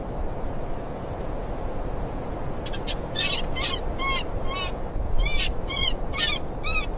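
Steady wind noise, with a run of about ten short, quick, high-pitched animal calls starting a few seconds in, roughly two or three a second.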